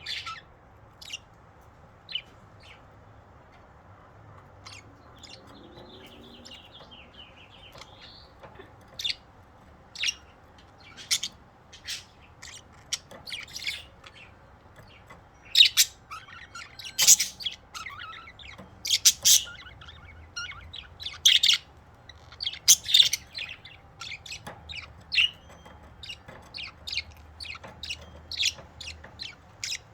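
Budgerigars chirping: short, sharp, high chirps, scattered at first and then coming thick and fast about halfway through, with a stretch of soft warbling chatter early on.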